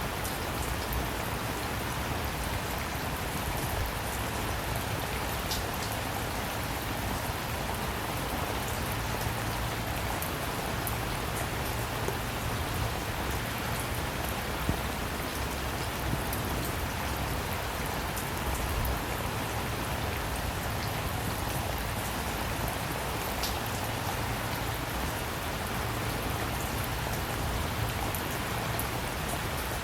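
Steady rain falling, drops pattering on surfaces with a few sharper drop ticks, over a faint low rumble.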